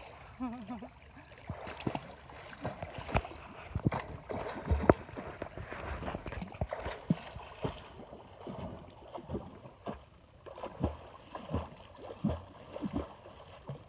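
Shallow river water splashing and sloshing irregularly, with many short sharp splashes or knocks.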